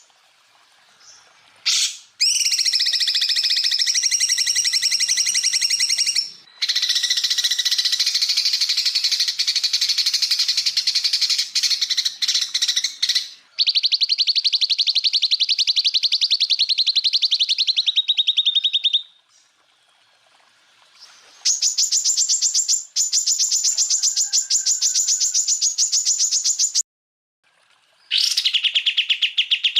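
Green leafbird (cucak ijo) singing in long, very fast trills: rapidly repeated notes held for several seconds at a time, with short pauses between phrases. These are the burst-like 'tembakan' phrases used as master song to train other birds.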